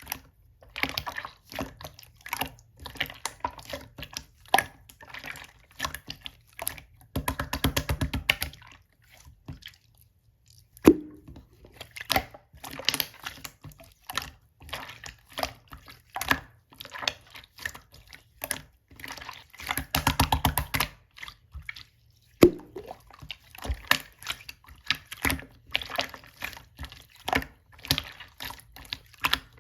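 Clear slime being squished and poked by hand, making a steady run of wet clicks and small pops, with two spells of rapid crackling about seven and twenty seconds in and a short pause around ten seconds.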